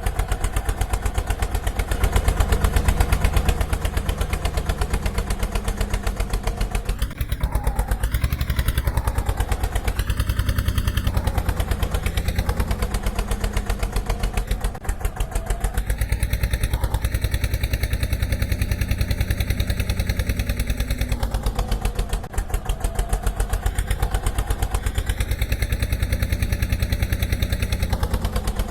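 Road roller's engine running with a rapid, steady chugging beat, its speed rising and falling a little now and then.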